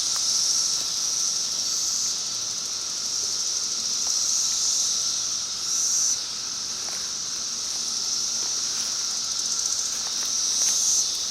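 Chorus of Brood X periodical cicadas: a steady, high buzzing hiss that swells and eases every few seconds.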